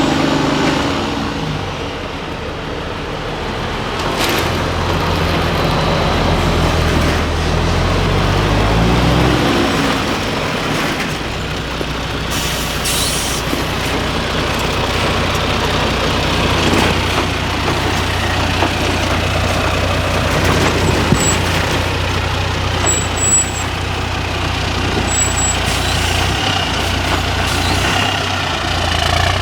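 Diesel engine of a 6x6 MAN trial truck working hard. Its pitch climbs and shifts over the first ten seconds, then it settles into a steady low drone. About twelve seconds in there is a short hiss.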